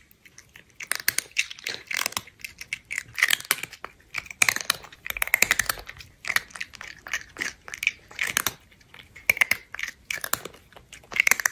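Crunchy chewing and munching: bunches of quick, wet crackling bites coming roughly every second, with short gaps between them.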